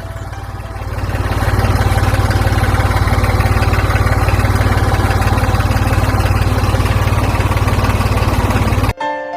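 An engine running at a steady idle with a fast, even throb. It comes in suddenly, swells over the first second or so, and cuts off abruptly just before the end.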